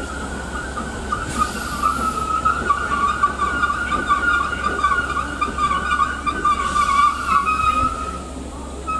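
A train running through the station with a high, wavering whine held throughout over a low rumble, and fainter higher tones joining in the middle.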